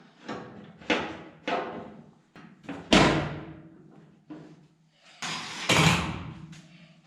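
Metal cover plate being handled and set in place: a series of clanks and knocks with short ringing tails, the loudest about three seconds in and another cluster a little before six seconds.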